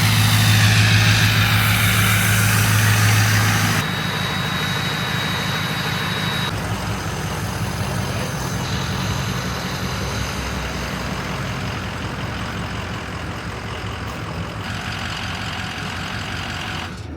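A truck engine running steadily, heard in several cut segments. The first few seconds are louder, with a strong low hum and hiss.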